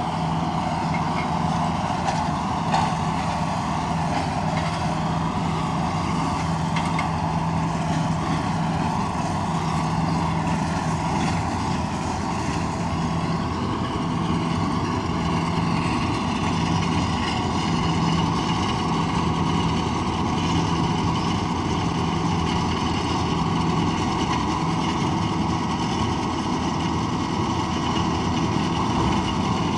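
Tractor engine running at a steady speed with an even hum that holds throughout.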